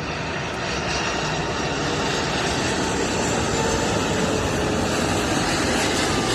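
Jet airliner engines running, a steady rushing noise with a faint whine that grows slowly louder as the aircraft passes close by.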